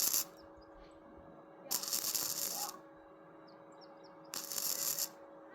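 Three short bursts of hissing, each about a second long and roughly two and a half seconds apart, over a faint steady hum.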